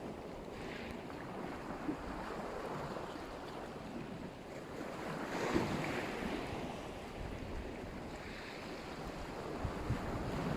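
Black Sea surf breaking and washing on the shore, with a swell of breaking water a little over halfway through. Wind buffets the microphone with a low rumble.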